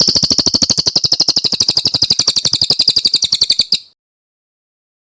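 Brown cililin singing a long, fast trill of rapid, evenly repeated high notes, about thirteen a second, which cuts off abruptly near the end.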